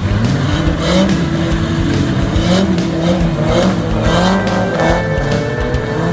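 Drift cars sliding on track, their engines revving up and down over and over as the drivers work the throttle, with tyres squealing.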